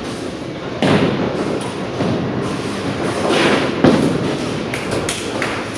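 Bowling alley noise: bowling balls rumbling along the lanes with thuds, a sharp knock about four seconds in and a few light clacks near the end.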